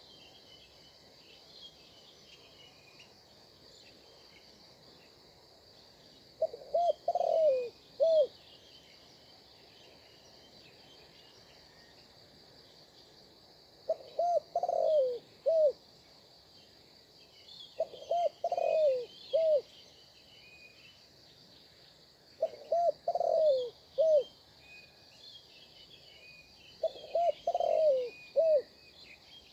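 A dove cooing: a short phrase of a few low notes, the middle one longer and falling, repeated five times about every four to five seconds. Behind it, small birds chirp over a steady high-pitched drone.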